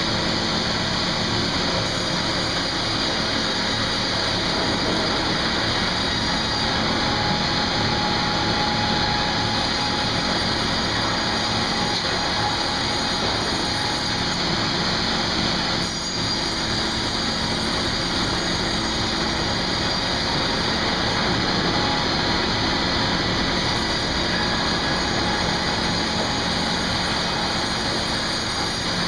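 Sawmill machinery running steadily, a dense even mechanical noise with a brief dip about sixteen seconds in.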